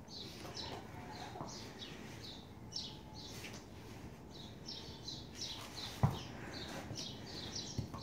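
Small birds chirping over and over, in short high chirps, with a single knock about six seconds in.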